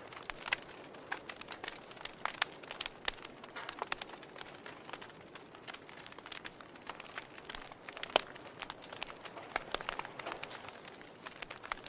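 Campfire crackling: irregular sharp pops and snaps of burning wood, several a second, over a soft steady hiss.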